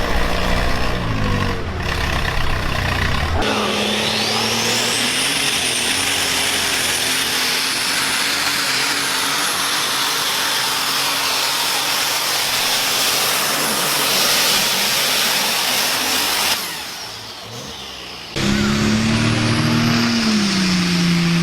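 International Harvester pulling-tractor engine running hard under load. A high whine rises steeply in pitch a few seconds in. Near the end the sound drops away abruptly for about two seconds, then the engine comes back with its note falling.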